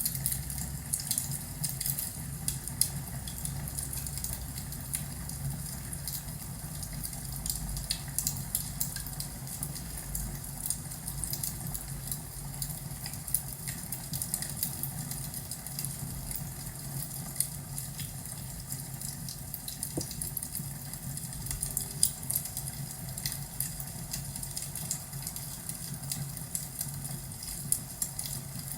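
Wood fire crackling in a fireplace: irregular pops and snaps over a steady low hum.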